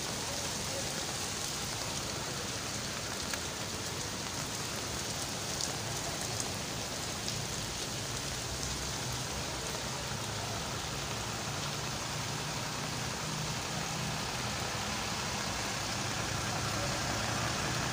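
Heavy rain falling steadily, an even hiss with a few light ticks of drops, over a low engine hum.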